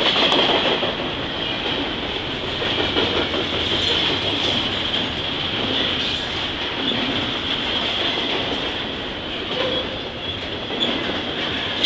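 Train cars rolling past, a steady loud rumble of wheels on rails with a high ringing whine held over it.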